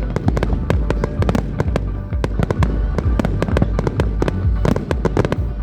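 Fireworks barrage: a rapid, unbroken string of bangs and crackles several times a second over a deep rumble.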